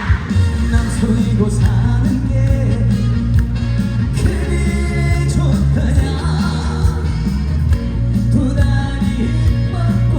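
A male singer singing a song live over loud amplified band music with a heavy bass.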